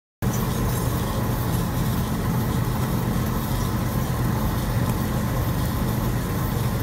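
Steady mechanical hum of a pipeline milking system running, the vacuum pump and milkers, cutting in abruptly just after the start.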